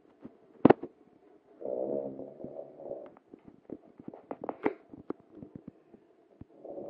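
Cavalier King Charles spaniel snoring in its sleep: a buzzy snore of over a second starting about two seconds in, then a run of crackling clicks, and the next snore starting near the end. A sharp click comes just before the first snore.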